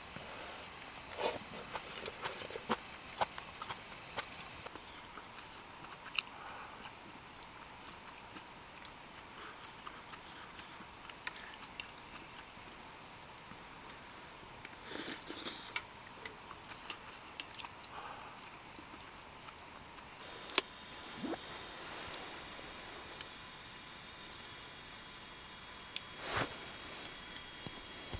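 Wood campfire crackling: scattered small clicks with a few sharper pops.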